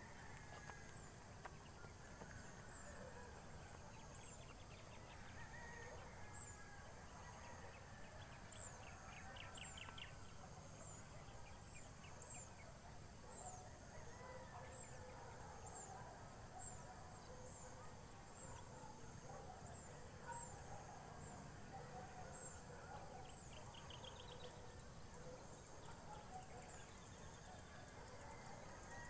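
Faint outdoor birdsong: short high chirps repeating about once a second, with other birds calling softly in the background.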